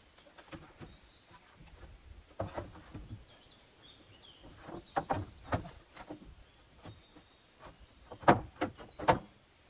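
Irregular knocks and thuds from handling hard material, a few at a time, the loudest coming in a quick cluster near the end, with faint bird chirps in the background.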